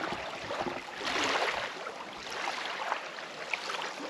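Water splashing and sloshing in uneven surges over a steady rush of water.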